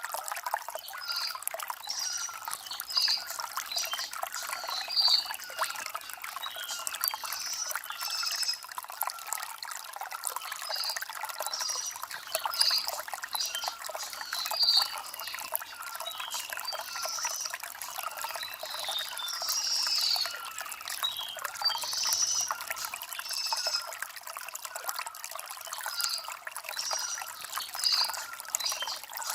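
Shallow stream trickling and splashing over stones in a steady flow, with birds chirping in short, high, repeated notes over it.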